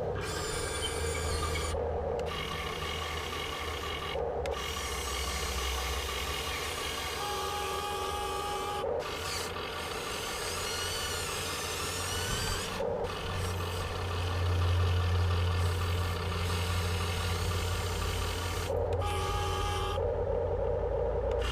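Electric servo and gear drives of a Huina 1580 all-metal RC excavator whirring and whining as the arm and bucket are worked, with a steady low hum underneath. The motor sounds stop briefly and start again several times as the controls are moved.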